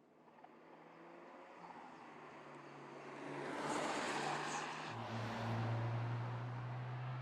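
Mercedes-AMG C43's 2.0-litre turbocharged four-cylinder engine and exhaust, growing steadily louder over the first few seconds, then settling into a steady drone about five seconds in.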